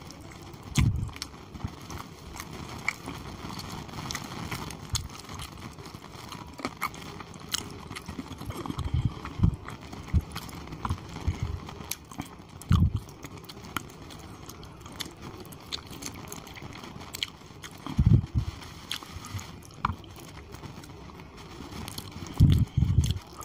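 Close-miked chewing and biting of chicken curry and khichuri: wet mouth smacks and many short clicks, with a few louder low thuds about a second in, near the middle and towards the end.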